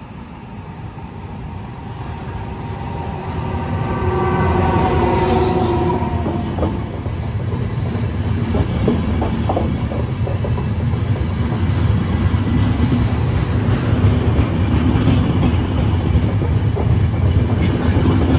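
Locomotive-hauled Intercity passenger train running along the platform track. It grows louder over the first few seconds with a brief whine from the locomotive, then the coaches rumble by with a steady run of wheel clicks over the rail joints.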